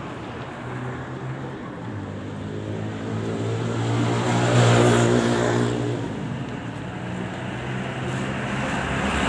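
A motor vehicle's engine running close by at low revs, growing louder to a peak about five seconds in and then fading as it moves past, over general street noise.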